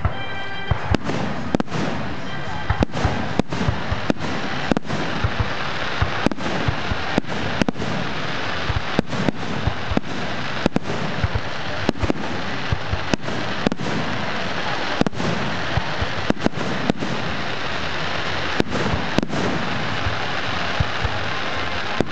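Fireworks display: a dense, continuous crackling with sharp bangs going off one after another, often several a second.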